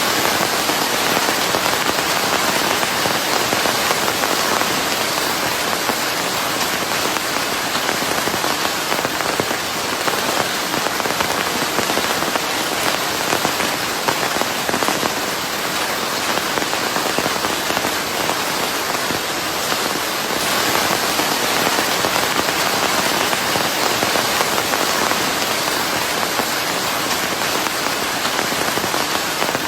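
Steady, dense rain falling on a surface, blended with white noise into an even hiss. It cuts in abruptly out of silence at the start and then holds level.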